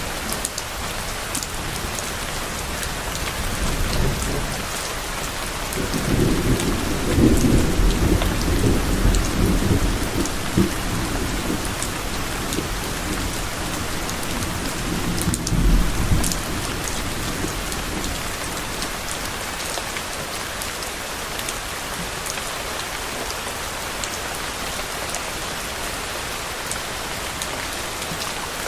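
Steady rain falling, with a low rumble of thunder building about four seconds in, loudest for several seconds and swelling again briefly before fading away.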